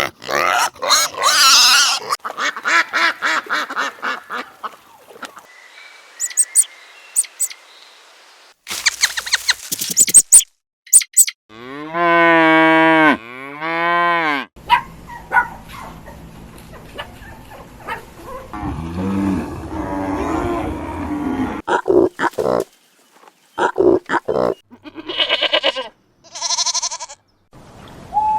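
A run of different farm animal calls one after another, among them two long cow moos about halfway through.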